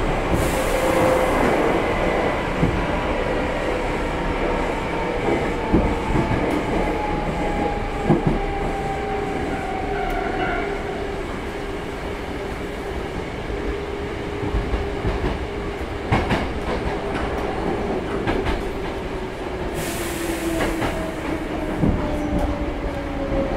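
Hankyu 6300 series electric train heard from inside the car while running: steady rumble with wheels clacking over rail joints, and a motor whine that falls slowly in pitch as the train slows. Two short hisses, one at the start and one near the end.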